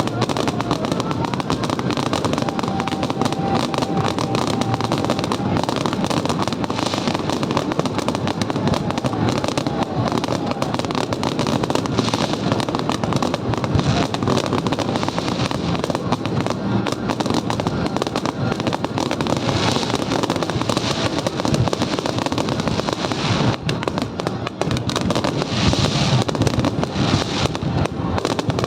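Fireworks going off in a dense, unbroken barrage of bursts and crackling.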